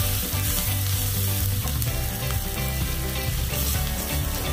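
Food sizzling steadily as it fries in hot oil in a pan over a medium flame, just starting to turn brown.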